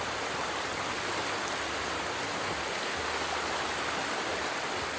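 Flowing river water, a steady, even rush with no pauses.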